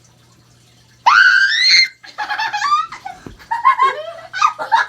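A girl screams loudly about a second in, the pitch rising, then girls laugh in quick choppy bursts, with a thump partway through the laughter.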